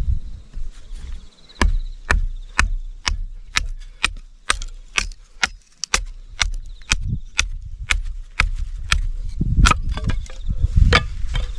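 A steady series of sharp knocks, about two a second, with a low rumble underneath that grows louder near the end.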